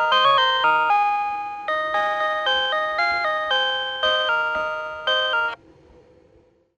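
Tobu Railway signal-clear tone from a PATLITE electronic annunciator: a quick electronic chime melody that loops to tell the one-man train's crew that the departure signal has cleared. It stops abruptly about five and a half seconds in.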